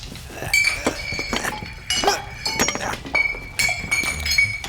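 Small hard objects, glass among them, clinking and knocking together in a busy run of clicks with short, high ringing notes.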